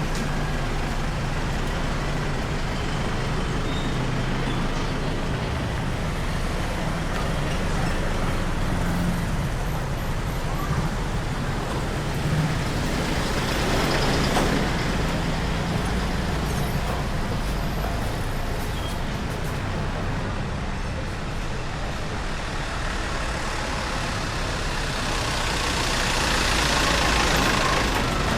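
Steady street traffic with engines running. Vehicles pass close, swelling louder about halfway through and again near the end.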